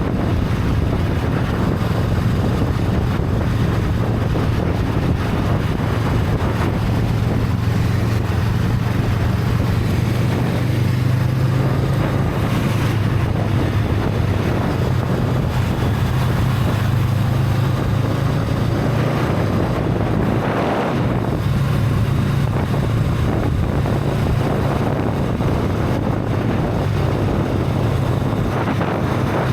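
Honda Rebel 500 parallel-twin engine running through its stock exhaust while riding, a steady low hum under wind buffeting the action-camera microphone. The engine note drops briefly about two-thirds of the way through, then picks up again.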